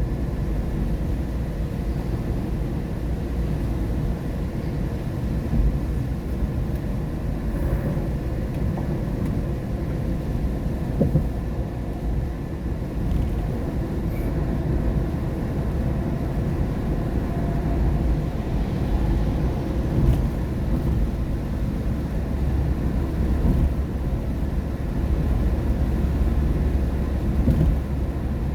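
Steady low road rumble of a car driving on a rain-wet road, heard from inside the cabin, with a few faint ticks.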